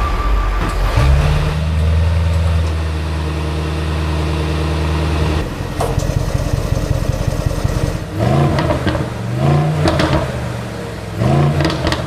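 Mercedes-AMG GLE 63 Coupe's 4.0-litre twin-turbo V8 running at a steady fast idle just after starting, then settling lower about five seconds in. In the last four seconds it is revved in about three short blips, each rising and falling in pitch.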